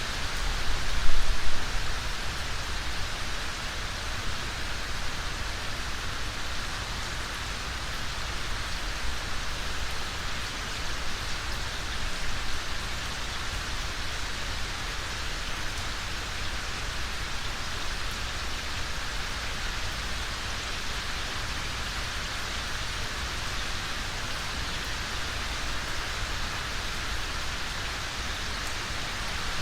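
Steady rain falling, an even hiss, with a brief low rumble swelling up about a second in.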